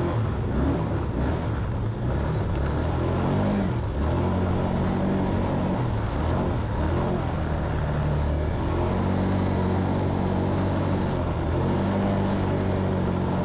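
Four-wheeler (ATV) engine running as it is ridden, its note shifting up and down with the throttle.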